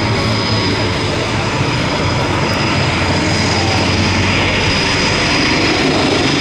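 Leonardo AW249 Fenice attack helicopter in flight: a steady loud run of rotor and turbine noise with a thin high whine over it.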